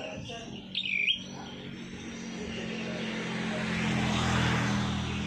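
A cage bird gives one short, sharp whistled chirp that dips and rises in pitch, about a second in. After it comes a low steady hum with a hiss that swells over a few seconds and starts to fade near the end.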